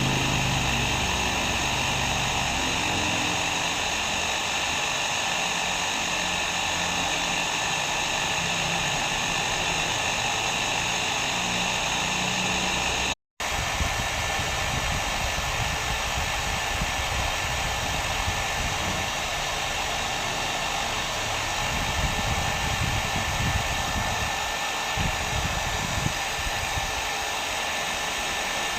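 Hair dryer blowing steadily: an even rushing hiss with a faint steady whine. It cuts out for a split second about halfway through, then carries on.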